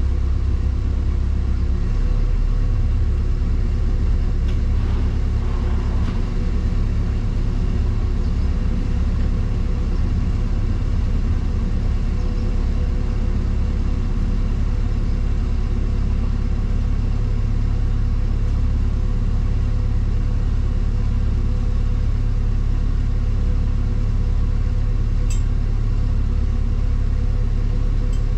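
Motor cruiser's inboard diesel engine running steadily under way, a constant low hum.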